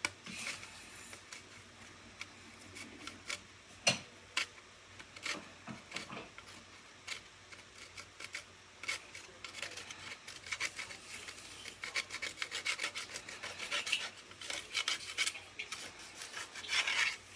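Grime being scrubbed off a Hoover vacuum's parts: short rubbing, scraping strokes, scattered at first and then coming quickly and steadily through the second half, with one sharper click about four seconds in.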